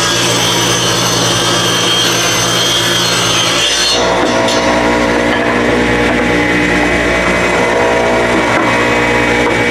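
Power saw ripping a 2x4 lengthwise to 2.5 inches wide, the blade running steadily through the wood, its tone shifting about four seconds in.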